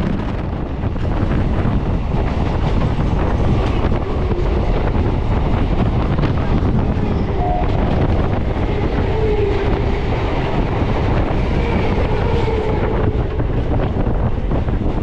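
Steady running noise of a suburban electric local train (EMU) heard from on board: the rumble and rattle of the coaches rolling along the track. A faint whine comes and goes about midway.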